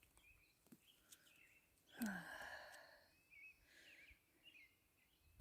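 Near silence with a few faint bird chirps, and a person's short sigh about two seconds in.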